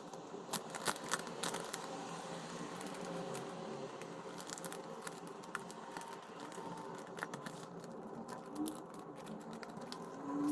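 Light clicks and taps of small stationery items being handled, over a steady background hum.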